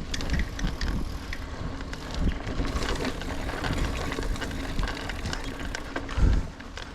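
Niner Air 9 RDO 29er mountain bike being ridden on dirt singletrack: tyres rumbling over the trail with scattered rattles and clicks from the bike, and a heavier knock about six seconds in.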